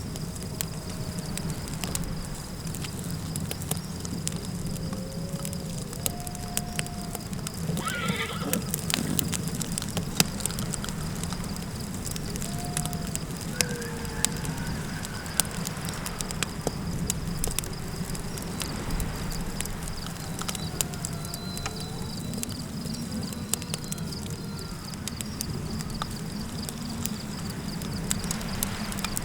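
Campfire crackling with sharp pops over a steady low wind rumble and a steady high insect chirr. About eight seconds in a horse whinnies once, and faint wavering howls glide up and down now and then.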